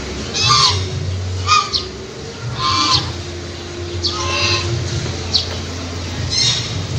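Bird honking in a series of short, harsh calls about once a second, over a steady low hum.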